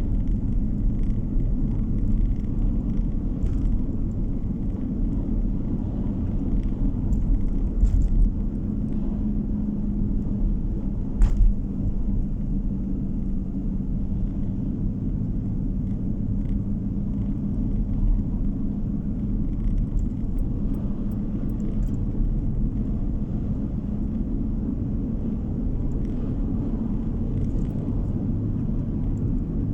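A car driving along a road, heard from inside the cabin: a steady low rumble of tyres and engine. A single sharp knock comes about eleven seconds in.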